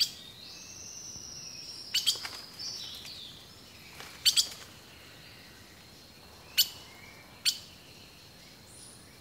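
Birds calling: thin high whistles with several short, sharp chirps or clicks, which come about every one to two seconds and are the loudest sounds.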